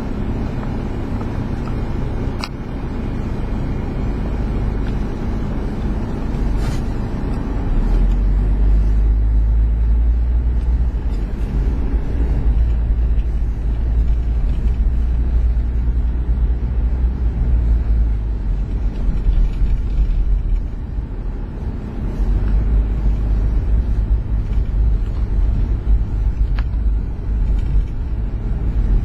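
A motor vehicle running, heard as a steady low rumble that grows louder about eight seconds in, with a few faint clicks.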